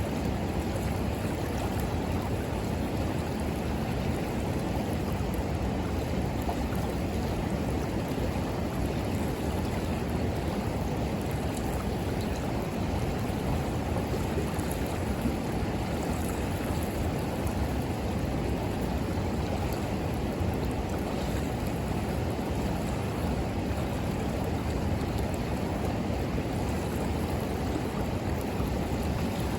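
River water running, a steady low rushing with no change in level.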